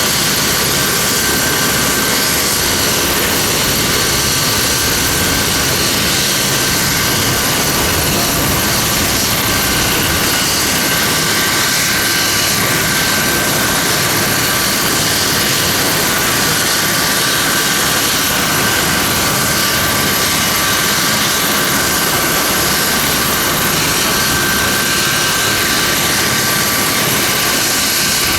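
Leonardo AW249 Fenice attack helicopter in flight: its twin turboshaft engines whine with steady high tones over loud, even rotor noise. The sound stays at the same level throughout.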